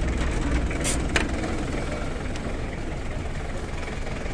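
Steady low rumble of a car engine idling close by, mixed with wind buffeting the phone's microphone, with a couple of short clicks about a second in.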